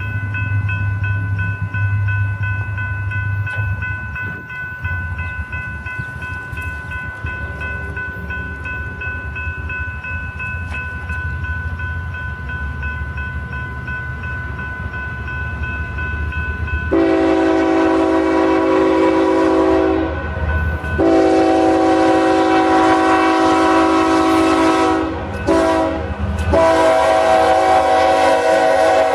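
BNSF diesel locomotives approach with a low rumble, accompanied by steady high ringing tones. About seventeen seconds in, the locomotive horn sounds the grade-crossing signal: two long blasts, a short one, then a long one still sounding at the end.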